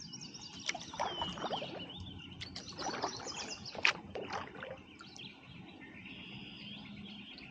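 Birds chirping and singing, with water and paddle sounds from a kayak and a few sharp knocks.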